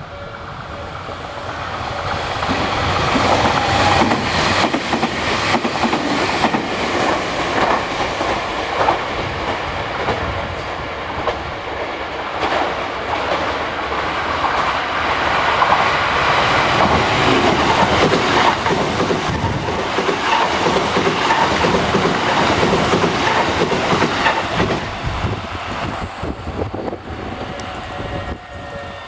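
An electric train on the Tobu Isesaki Line passes over the level crossing. Its wheels clatter rhythmically over the rail joints. The noise builds over the first few seconds, holds steady for about twenty seconds, then fades near the end.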